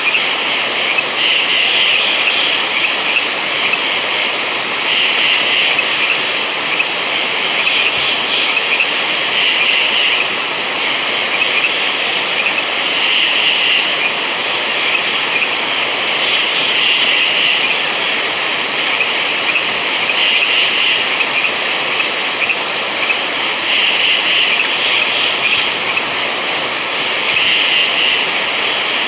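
Dense night chorus of frogs calling continuously, with a higher-pitched band of calls that swells up about every three to four seconds.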